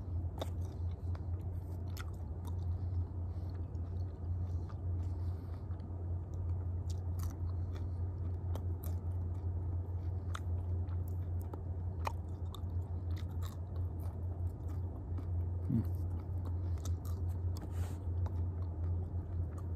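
A person chewing whole grasshoppers, with many short crisp crunches scattered throughout, over a steady low hum.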